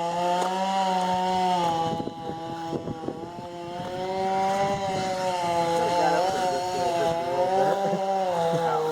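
A small engine running at high, fairly steady revs, its pitch sagging and recovering a few times.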